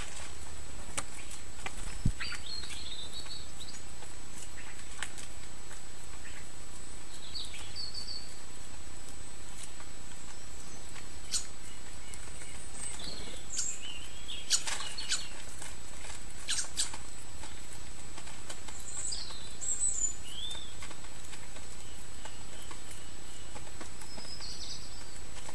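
Small garden birds giving short chirps and calls now and then, with scattered sharp clicks and taps, the loudest about two seconds in. A thin steady high-pitched tone runs underneath.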